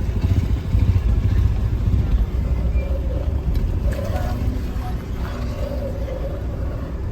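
A motor vehicle driving on a rough dirt road, with a steady low rumble of engine and road noise.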